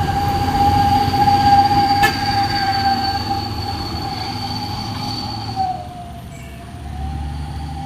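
Heavy truck labouring up a steep grade: low engine rumble under a steady high whine, which dips in pitch about six seconds in and then comes back up.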